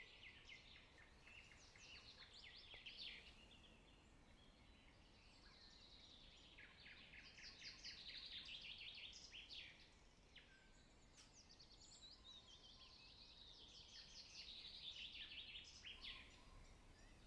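Faint songbird singing outdoors: phrases of rapid, trilled notes, each a few seconds long, repeated about three times with short pauses between, over a low background hiss.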